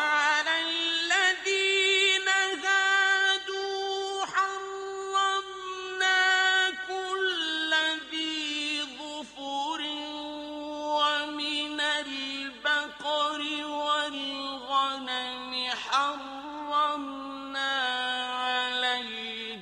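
Male Quran reciter chanting in the melodic mujawwad style, one voice in long, ornamented held notes. It starts abruptly after a pause, and the pitch steps gradually lower over the phrase.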